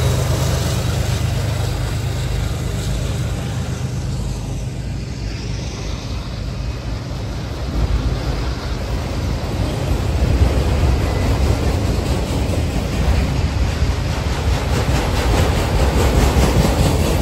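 Freight train of autorack cars rolling past at close range: a steady rumble of steel wheels on rail that grows louder about eight seconds in. At the start, the diesel engine of a mid-train CSX distributed-power locomotive is heard running as it passes, fading within the first second or two.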